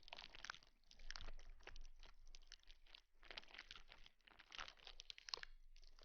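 Faint crinkly rustling close to the microphone: a dense run of small crackles and crunches, made for ASMR.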